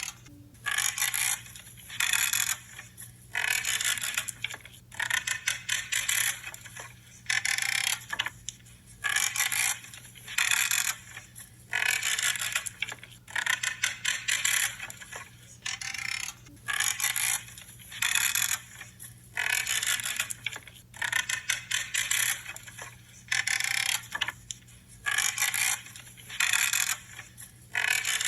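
Pruning shears cutting through branches again and again, each cut a short creaking crunch of wood. The cuts come about once a second, some in quick pairs.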